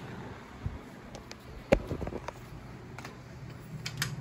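A few scattered knocks and clicks, the loudest about a second and a half in and a quick cluster near the end, over a low steady hum.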